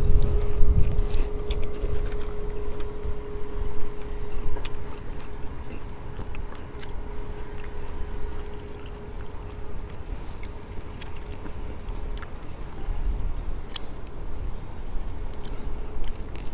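A person eating a burrito: chewing and mouth sounds with scattered sharp crackles from handling the wrapped burrito, over a steady low rumble and a faint hum.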